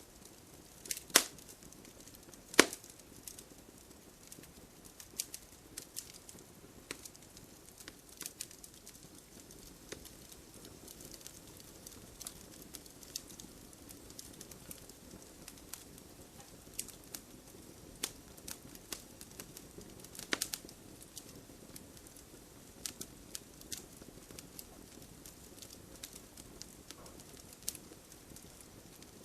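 Wood fire crackling: irregular sharp pops and snaps from burning logs over a low steady hiss, with two loud pops about a second and two and a half seconds in and another about twenty seconds in.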